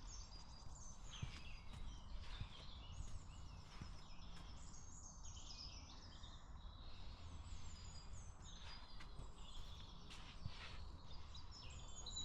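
Several small birds chirping and singing in quick trills over a low, steady rumble.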